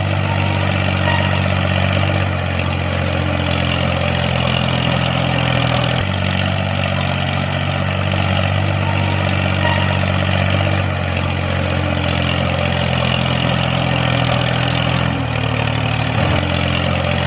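A motor running steadily at constant speed: a low, even hum with a hiss above it, dipping slightly about six seconds in and again near the end.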